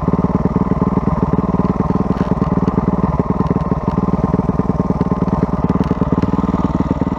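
Motocross dirt bike engine running at a steady speed, its firing a fast, even pulse with no revving up or down.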